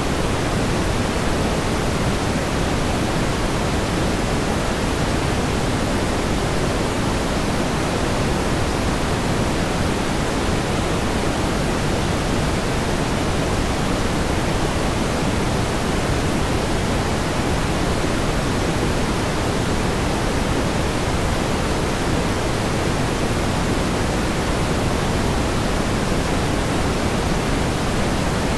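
Steady pink noise: an even, unchanging hiss, heavier in the low and middle range and softer at the top.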